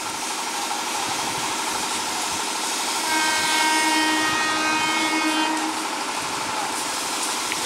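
ICF Medha electric multiple unit approaching, its wheels and running gear making a steady running noise on the track. About three seconds in, its horn sounds one long blast lasting nearly three seconds.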